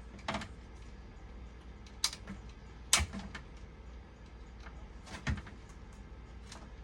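About five scattered clicks and light knocks of small tools and parts being handled at a workbench, the sharpest about three seconds in, over a steady low hum.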